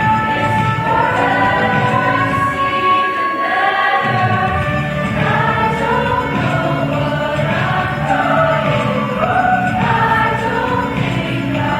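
High-school choir singing a pop song live in several parts. The low parts drop out about three seconds in and come back a second later.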